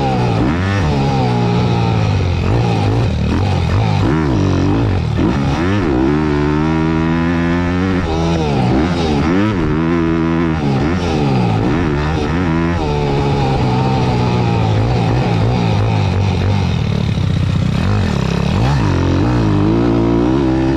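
Thumpstar 190 pit bike's single-cylinder four-stroke engine revving up and down again and again under throttle as it is ridden, with a steadier stretch past the middle. Heard close up from a camera mounted on the bike.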